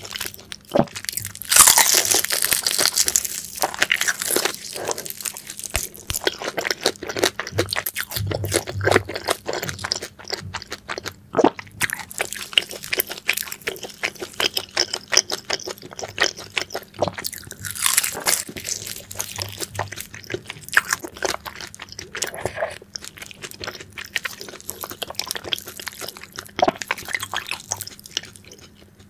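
Close-miked crunching bites and wet chewing of grilled daechang, beef large intestine with a crisp skin, as a string of crackles and crunches. The loudest bites come about two seconds in and again midway.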